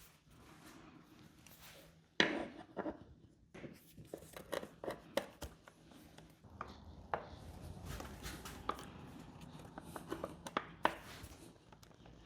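Irregular clicks, taps and knocks of hand tools and metal parts being handled during outboard motor reassembly, with a louder knock about two seconds in.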